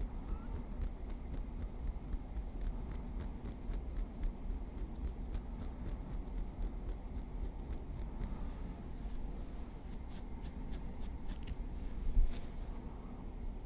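Light tapping with a small wooden stick: many soft, sharp clicks in an uneven rhythm, with a quick run of taps near the end and one louder tap just after it.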